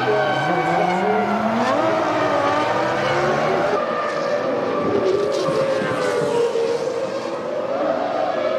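Several 3.0-litre V10 Formula One engines at racing speed, their overlapping notes rising and falling as they accelerate and pass.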